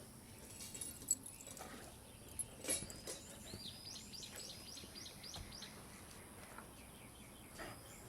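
Faint outdoor ambience with a bird giving a quick run of repeated high chirps, about four a second for around two seconds midway, and a few faint knocks earlier.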